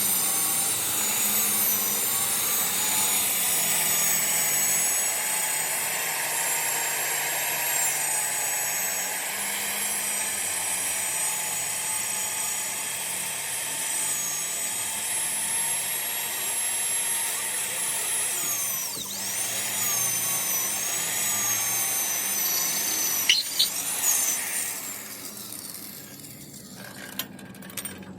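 A power tool running with a high-pitched whine that wavers in pitch as it works on the metal, dipping briefly about two-thirds of the way in, then dying away near the end with a few sharp clicks.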